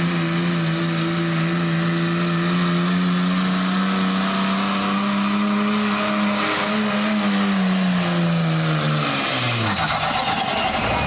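Pickup truck engine held at high revs under heavy load while pulling a weight sled, with a steady high whine above it. A little past six seconds the pitch steps up slightly, and from about nine seconds the engine and whine wind down.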